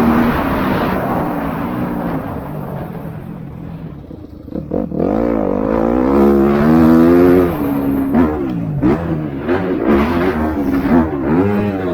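MX2-class motocross motorcycles racing: one engine note fades away over the first few seconds, then from about five seconds in engines rev up and down in quick rises and falls as riders work the throttle.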